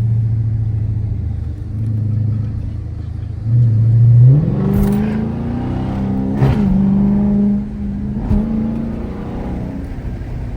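Car engine running steadily, then revving up about four seconds in and holding at a higher pitch, with two short breaks in the sound a couple of seconds apart.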